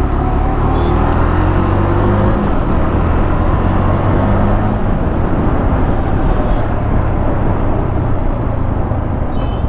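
Motorcycle riding at about 50 km/h: the engine runs under a steady rush of wind and road noise, its pitch rising a little over the first couple of seconds and then holding steady.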